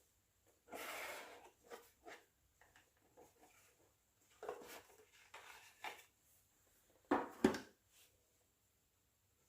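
Gift packaging handled during an unboxing: a long rustle about a second in, then several short rustles and taps, and a louder bump of the box about seven seconds in.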